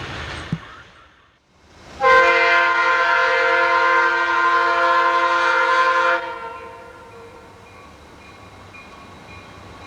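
Diesel locomotive air horn sounding one long, loud blast of about four seconds, starting about two seconds in, followed by the quieter rumble of the train. Before the horn, the noise of a passing train fades out.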